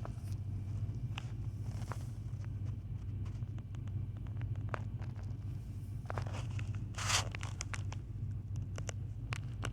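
A vehicle engine idling with a low, steady hum, with scattered light clicks and rustles over it and one short hiss about seven seconds in.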